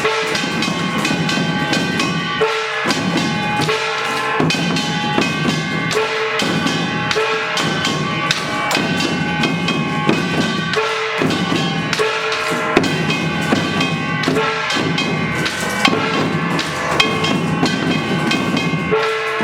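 Samul nori percussion ensemble playing a fast, continuous rhythm: janggu and buk drums struck over the ringing clang of kkwaenggwari and jing gongs.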